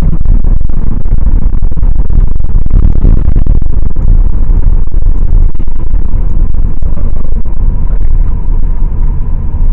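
Loud road and wind rumble inside a moving car's cabin, heaviest in the low end. It is loud enough to drown out speech, and eases slightly near the end.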